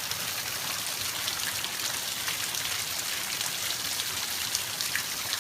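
Heavy steady rain falling and pattering on surfaces, with many small drop ticks in a constant hiss.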